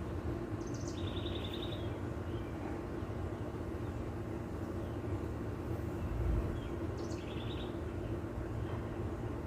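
A bird calls twice, about six seconds apart, each phrase a short high note followed by a quick trill, over a steady low background rumble. There is a brief low thump a little after the middle.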